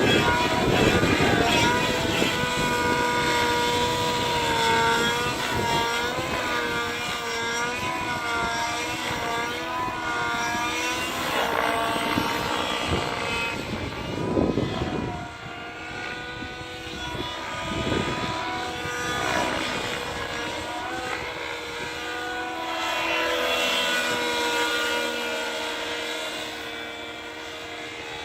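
SAB Heli Division Black Nitro RC helicopter's nitro glow engine and rotors running in flight. The whine holds steady, with its pitch swooping up and down repeatedly as the helicopter manoeuvres.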